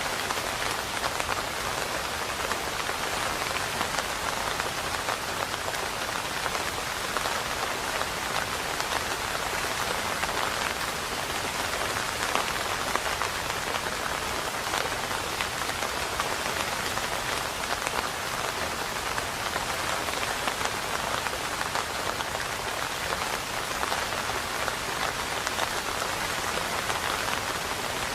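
Steady rain falling: an even hiss of countless small drop impacts that holds constant, with no thunder.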